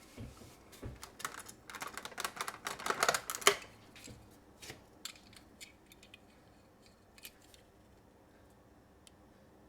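Small plastic toy cars being handled, with a quick run of clicking and rattling about a second in, peaking with a sharp click near three and a half seconds, then a few scattered clicks.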